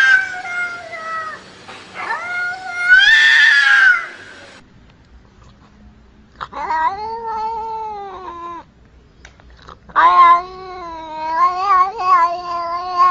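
Cats yowling in long, drawn-out calls. A higher yowl rises in pitch and cuts off abruptly about four seconds in. After a short pause come two lower, longer yowls, the last one wavering up and down.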